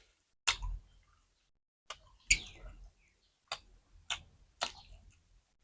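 Eating sounds: about six short, sharp crunches or clicks at irregular intervals, as crisp food is bitten and chewed.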